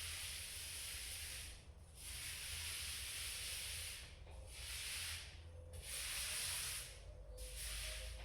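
Paint being applied to a wall in repeated strokes: a hissing rub, about five strokes of one to two seconds each with short pauses between.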